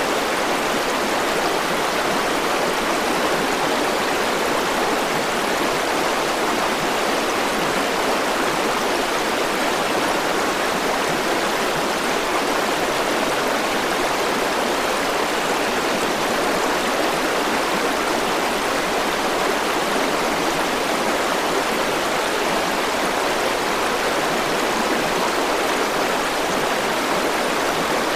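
River water flowing steadily over rocks, an even rushing of water with no breaks or changes.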